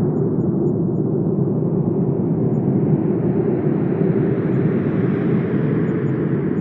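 Wind blowing in a steady low rush, its brightness slowly swelling and easing.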